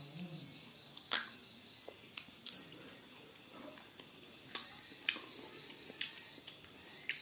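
Mouth sounds of someone chewing food picked up close: irregular sharp clicks and smacks, several spread across a few seconds.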